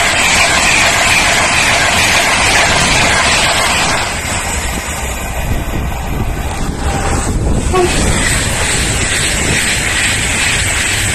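Train running, a loud steady rush of wheel and track noise. It eases a little about four seconds in and builds again past the middle.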